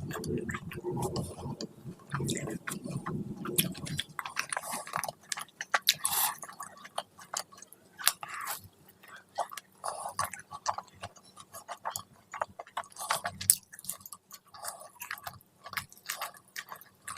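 A person chewing food close to the microphone: irregular wet smacking and clicking mouth sounds, heavier and fuller in the first few seconds.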